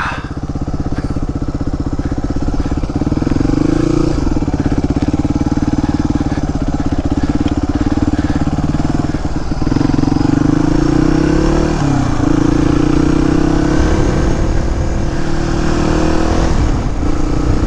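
Suzuki DR250S single-cylinder four-stroke engine under way, its note rising as the throttle is held and falling back sharply about four seconds in and again around twelve seconds, then climbing steadily before easing off near the end.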